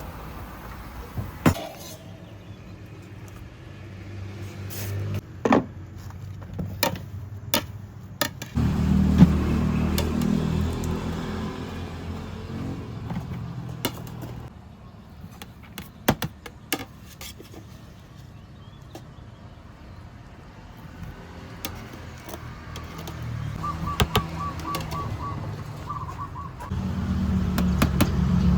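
Road traffic passing, its engine rumble swelling about a third of the way in and again near the end, with scattered sharp clicks and knocks and a short run of quick high beeps shortly before the end.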